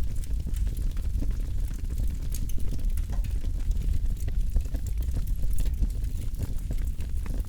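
Campfire burning with a steady low rumble and frequent small crackles and pops scattered throughout.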